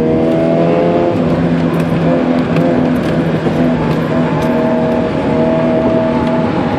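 Nissan B13's GA16 1.6-litre four-cylinder engine pulling under load, heard from inside the cabin; its pitch climbs a little at first and then holds steady, over constant road and wind noise.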